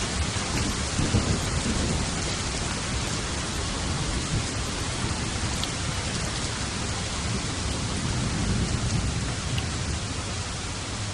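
Steady heavy rain with rolling thunder: low rumbles swell up about a second in and again near the end.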